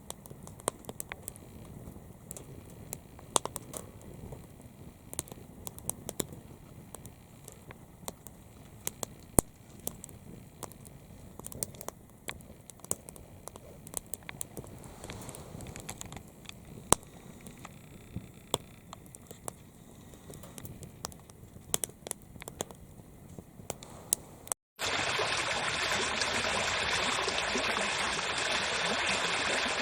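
Firewood crackling in a secondary-combustion wood stove: sharp irregular pops and snaps over a low hiss. About 25 seconds in it cuts abruptly to a much louder, steady rushing noise.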